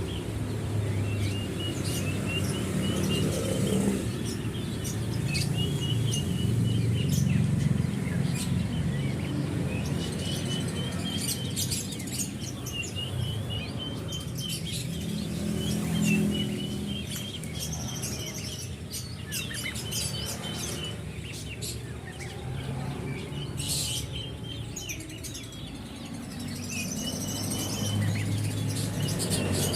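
Several caged songbirds chirping and calling, repeated short series of chirps with sharp high ticks mixed in, over a steady low rumble.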